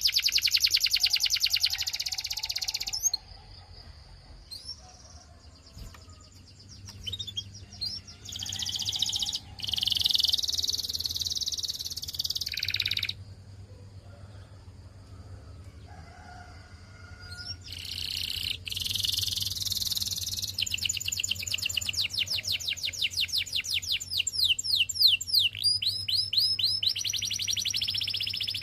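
Canary singing in long phrases of fast rolling trills, each made of rapid repeated notes. The song breaks off twice into quieter gaps with a few scattered chirps, and the longest trilled phrase fills the last ten seconds.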